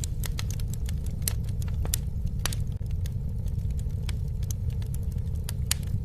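Campfire burning: wood crackling and popping at irregular intervals over a steady low rumble of flame.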